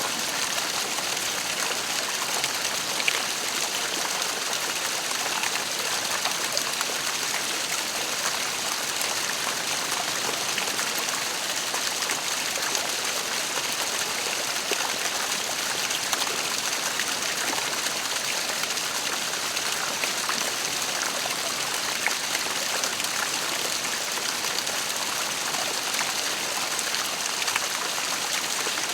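Waterfall: a steady rush of falling water with small splashes flicking through it.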